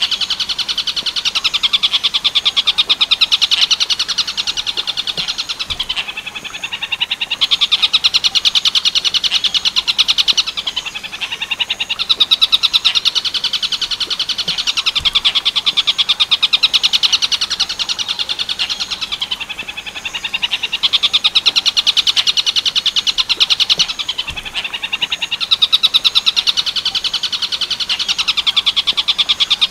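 Tengkek buto song in the Werkudoro style, the kind of recording played to caged birds for them to copy: a loud, fast rattle of high notes, coming in phrases of a few seconds with brief dips between them.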